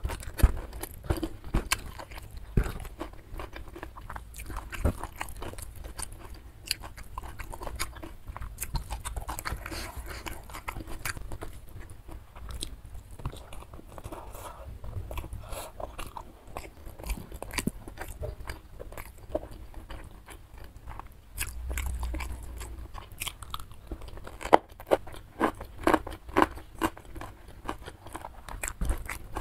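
Close-miked chewing and crunching of mouthfuls of nasi padang (rice with side dishes), a steady run of sharp crunchy clicks that grows denser and louder near the end.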